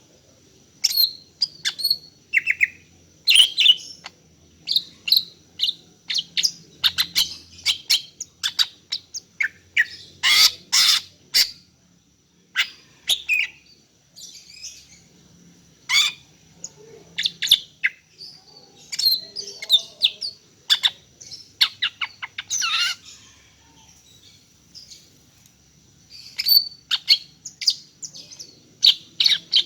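Female greater green leafbird (cucak ijo) calling: rapid clusters of short, sharp chirps separated by brief pauses. These are the calls of a female in breeding condition calling to males.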